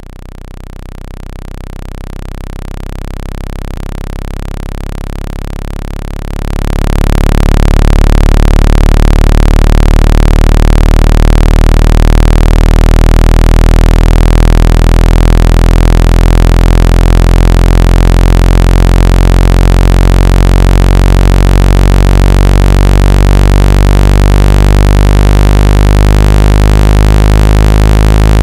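Loud, steady low electronic buzzing tone with many overtones: a speaker water-ejection tone, played to vibrate trapped water out of a phone or earphone speaker. It swells in over the first few seconds, steps up louder about six seconds in, then holds steady.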